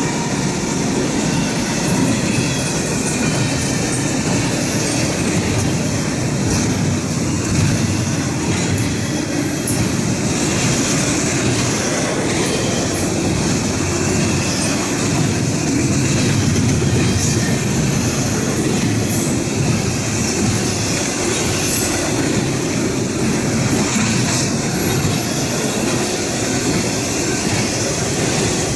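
Norfolk Southern intermodal freight cars rolling steadily past at close range: a continuous rumble and clatter of steel wheels on rail, with thin high wheel squeal now and then.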